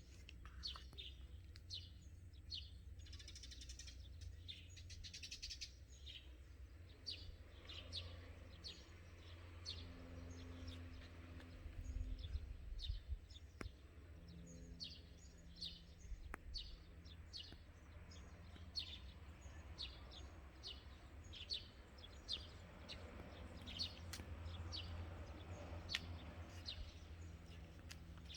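Small birds chirping, short high chirps repeating every second or so, over a faint steady low rumble.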